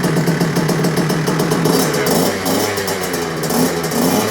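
Suzuki RM65's small two-stroke single-cylinder engine running just after being kick-started, on its first start after a new piston and rings were fitted. It runs steadily at first, then the revs rise and fall from about halfway through.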